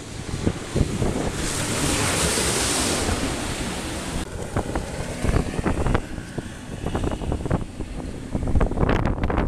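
Wind buffeting the microphone over rushing water on a rigid inflatable boat running through waves. A loud hiss of spray rises about one and a half seconds in and dies away a couple of seconds later.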